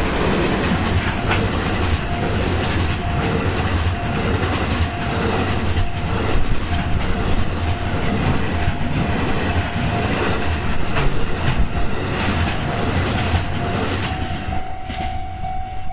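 Freight train hauled by two diesel locomotives passing through a station, its wagon wheels clicking over the rail joints. Near the end the train noise drops and a steady high tone stands out.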